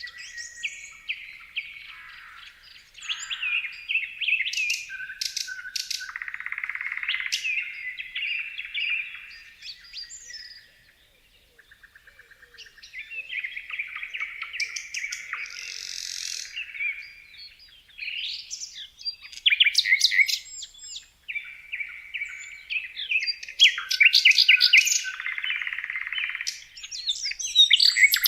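Several small songbirds chirping and trilling in quick, overlapping phrases, with a short lull about eleven seconds in.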